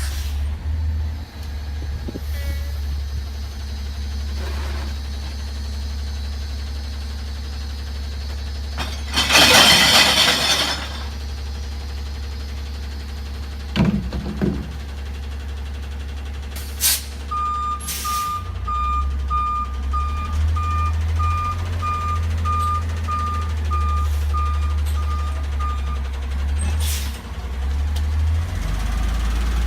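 CNG garbage truck running with a steady low engine hum. About nine seconds in, an air brake gives a loud two-second hiss. Later the truck's reversing alarm beeps about twice a second for roughly eight seconds, with a few knocks from the truck.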